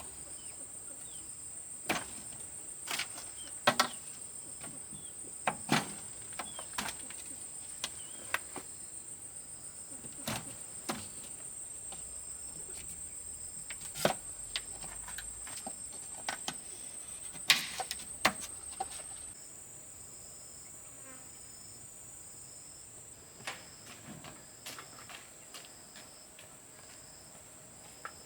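Insects chirring in a steady high band, with a second, fainter insect pulsing about once a second. Over it come irregular sharp knocks and taps, fewer in the last third.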